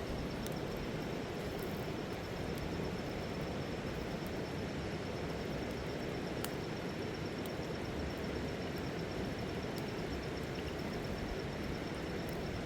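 Steady rushing of a river, a deep, even wash of water noise, with a faint high, even trill running through it.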